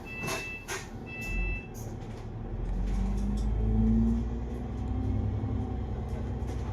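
Double-decker bus heard from inside: a few short electronic beeps in the first two seconds, then the diesel engine's low rumble builds as the bus accelerates, its engine note rising and falling and loudest about four seconds in.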